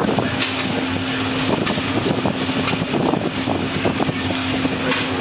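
Blacksmith's hammer striking hot metal on an anvil, a run of blows roughly every half second with uneven spacing, over a steady low hum of machinery.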